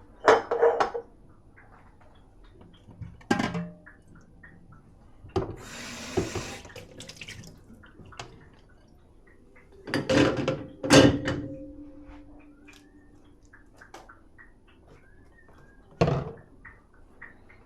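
Dishes clinking and clattering as they are handled and loaded into a dishwasher: several sharp knocks of crockery that ring on briefly. About six seconds in there is a short rush of running water.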